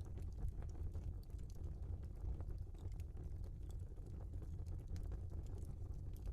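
Logs burning in a fireplace: a steady low rumble of flames with scattered, irregular crackles and pops.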